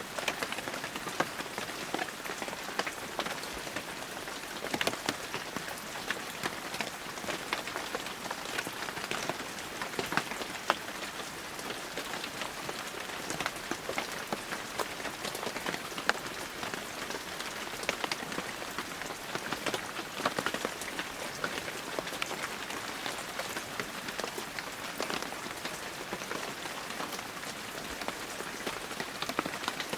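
Heavy rain falling steadily, a dense hiss with many sharp individual drop impacts throughout.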